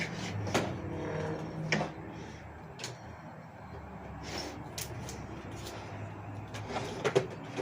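Handling noises: scattered light knocks and clicks, a few seconds apart, over a low steady hum.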